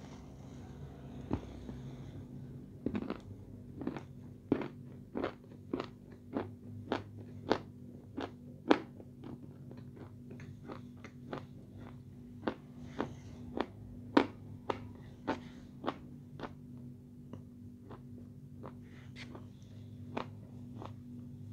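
Close-up chewing of a mouthful of edible red clay: a run of sharp crunches and clicks about two a second, thinning out after the middle.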